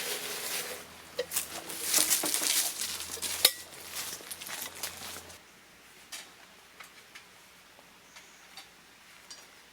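Cookware and utensils clinking and scraping, busy with sharp clicks for about five seconds, then dropping to a few faint clicks.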